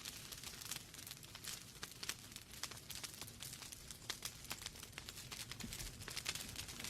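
Wood fire burning in a fireplace, logs crackling and popping in quick, irregular snaps over a low rumble of flame.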